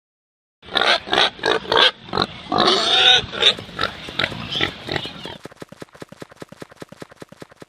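Domestic pig grunting and squealing, then a fast run of short, even grunts that fades away.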